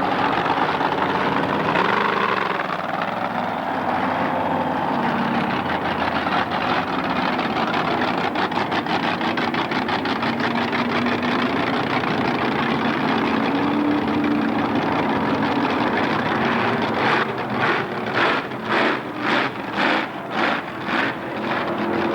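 Large truck engine running, its pitch shifting up and down. Near the end it pulses in a regular rhythm about twice a second for a few seconds.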